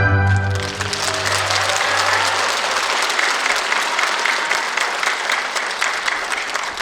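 Audience applauding at the end of a sung classical performance. The final held note and the low accompaniment chord ring out under the clapping and fade within the first few seconds.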